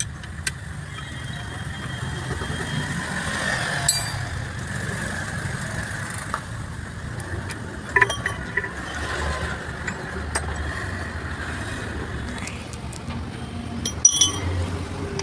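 Steady low rumble of a running motor vehicle engine, with a few sharp metallic clinks from tools and gearbox parts.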